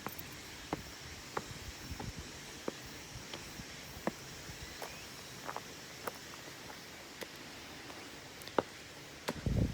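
Footsteps on a path, a step roughly every second, over a steady faint hiss. There is a low bump near the end.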